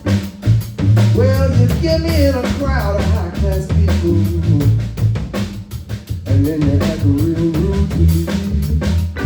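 Live blues band playing: drum kit keeping a steady beat with rimshots and bass drum, a walking bass line underneath, and a lead melody line with pitch bends over the top.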